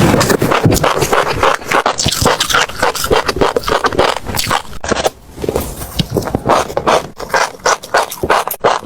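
Close-miked chewing: passion fruit seeds crunching between the teeth in a rapid run of crisp cracks, with a short pause about five seconds in.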